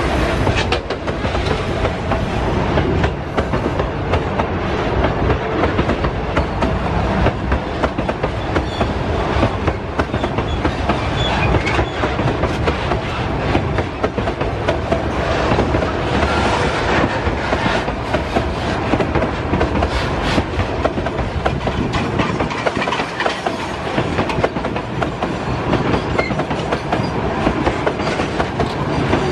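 Loaded freight wagons of a limestone train rolling past close by, their steel wheels clattering steadily over the rail joints in a continuous run of clicks and knocks.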